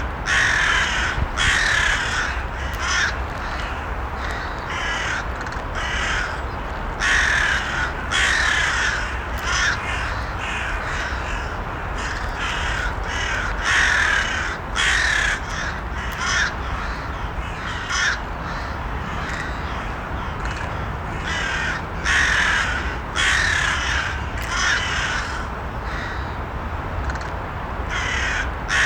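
Crows cawing again and again, harsh calls in clusters of several caws, over a steady low background noise.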